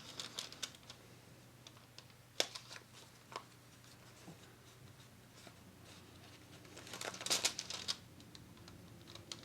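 Paper being handled: a few light taps and clicks, then a brief burst of paper rustling about seven seconds in.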